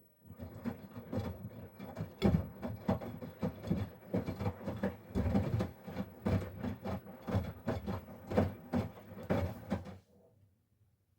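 Miele PW 6065 Vario washing machine drum turning through the main wash, stuffed toys and water tumbling and thudding irregularly inside it over the motor's low hum. The drum starts turning just as the sound begins and stops about a second before the end.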